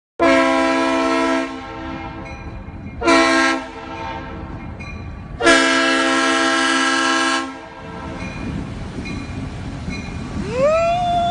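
Multi-tone air horn, like a train or truck chord horn, blowing three blasts: a short one, a shorter one, then a longer one of about two seconds, over rumbling background noise. Near the end a single tone rises in pitch and holds.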